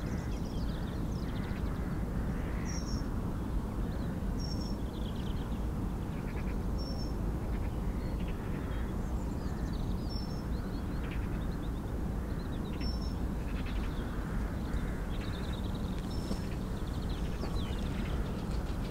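Birds calling in open countryside: harsh, croaky calls here and there and a short high chirp repeating every couple of seconds, over a steady low rumble.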